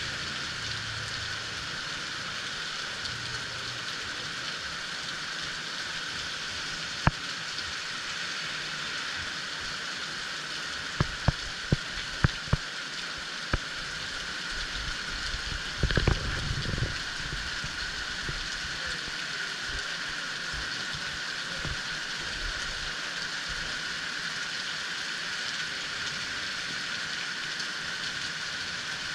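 Heavy rain falling steadily, an even hiss. A few sharp taps break through about a third of the way in, and a short burst of louder knocking comes about halfway through.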